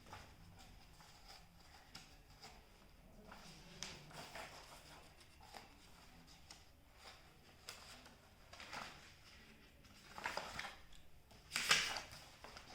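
Faint rustling and handling of paper as a book is taken out and its pages are turned, in short scattered bursts, the loudest near the end.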